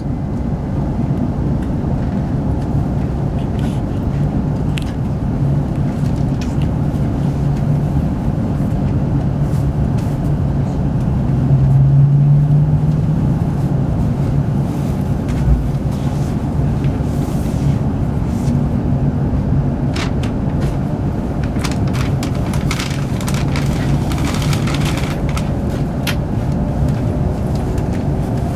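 Hokuriku Shinkansen train running noise heard inside the passenger cabin: a steady low rumble and hum, with a cluster of short clicks and ticks in the second half.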